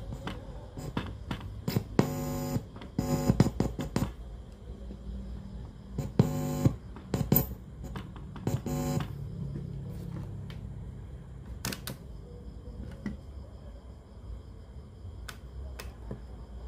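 Steady electrical mains hum from a cassette radio under repair, broken by three short buzzes and scattered sharp clicks.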